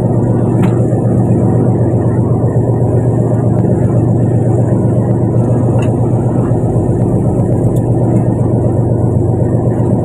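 Fishing boat's engine running steadily, a loud, even low drone.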